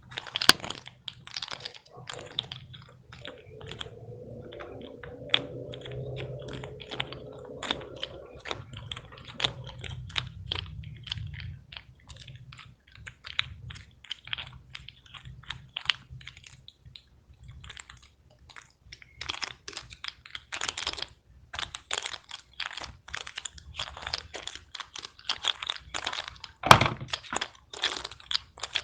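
Plastic fidget toys being clicked and tapped: quick runs of small, sharp clicks go on throughout, with one louder snap near the end.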